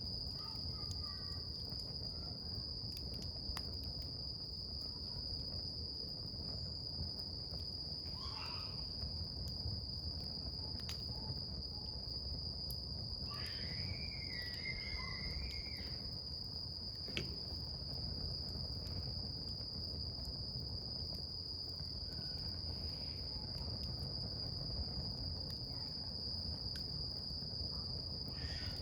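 A wood campfire burning with scattered small crackles and pops, under a steady, unbroken high insect trill. Two short wavering calls stand out, about 8 seconds in and again around the middle.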